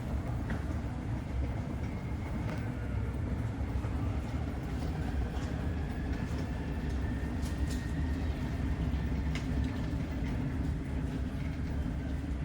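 Jet airliner engines: a steady low rumble, with a faint high turbine whine that slowly rises and then falls in pitch.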